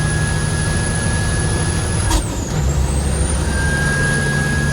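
Heavy truck's diesel engine running under way, with a steady high whine over the low engine note. About two seconds in there is a sharp click, and the whine drops and then climbs back as the engine note changes, like a gear shift.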